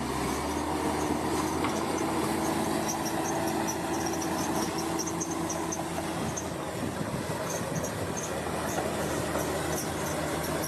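Heavy crawler machine, likely a bulldozer, with its diesel engine running steadily and a held whine during the first half. Its steel tracks make a run of small squeaks and clinks.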